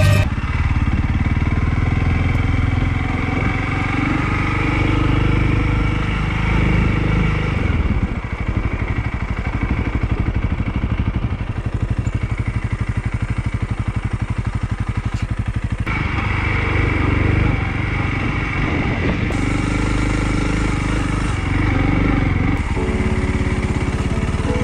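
Honda CRF 300L's single-cylinder four-stroke engine running as the motorcycle is ridden. Through the middle it settles into an even, low throb, and about two thirds of the way in the sound changes as the engine speed shifts.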